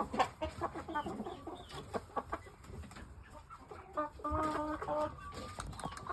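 Chickens clucking, with one bird giving a steady, drawn-out call of about a second, about four seconds in, amid scattered light clicks and scuffs.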